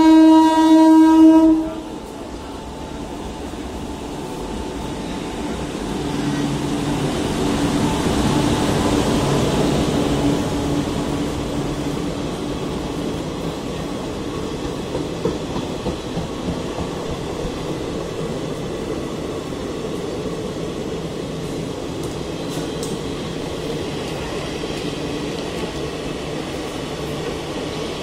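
WAP-4 electric locomotive's horn, one blast that cuts off about two seconds in. Then the train passes: the rolling noise swells as the locomotive goes by and settles into a steady rumble of passenger coaches on the rails, with a few clicks of wheels over rail joints.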